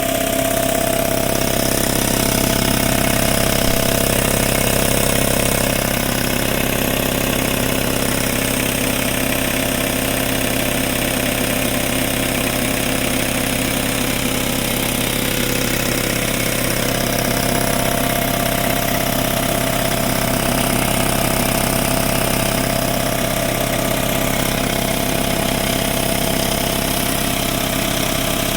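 Craftsman 5 HP 20-gallon air compressor (Sears model 919.716850) running steadily, its 240-volt electric motor and pump filling the tank on an automatic cycle.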